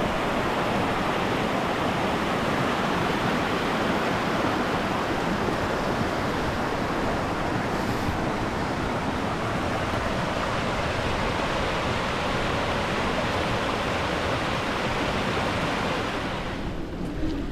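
Steady rushing of running water, thinning out near the end.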